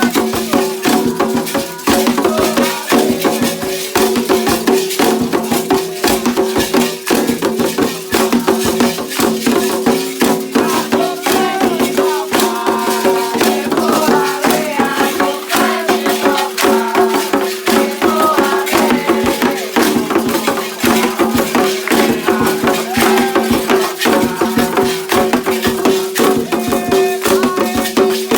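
Candomblé ceremonial music dominated by rattles shaken in a fast, continuous rhythm, with other percussion and two steady ringing tones held underneath throughout.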